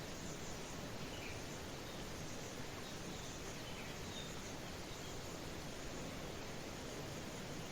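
Steady hiss of light rain with a few faint, brief bird chirps scattered through it.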